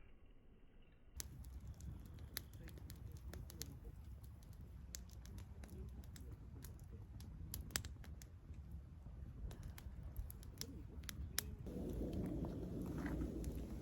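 Wood campfire crackling, with irregular sharp pops over a low rumbling noise. The low noise grows louder near the end.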